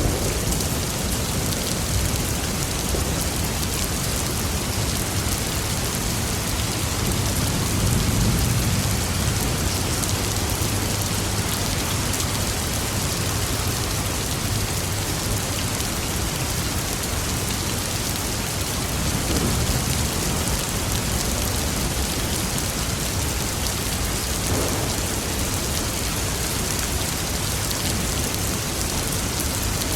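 Steady heavy rain falling, with low thunder rumbling a few seconds in and again a little past the middle.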